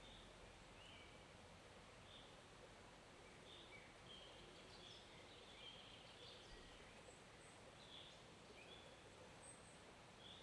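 Faint forest ambience: a steady low wash of flowing stream water, with many short, high bird chirps scattered throughout.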